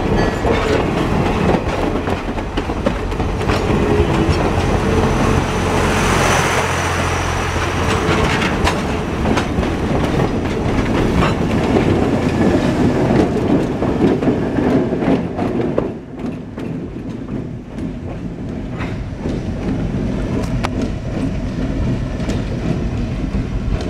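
Passenger coaches rolling past close by, wheels clacking over the rail joints, followed by the diesel locomotive at the rear of the train. The sound drops about sixteen seconds in as the train moves away.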